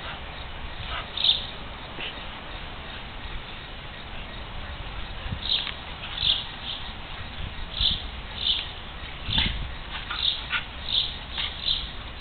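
A bird chirping repeatedly, short high chirps that come sparsely at first and then about one or two a second.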